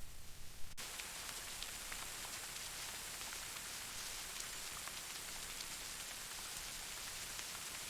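Steady rain, an even hiss with faint patter, cutting in abruptly about a second in.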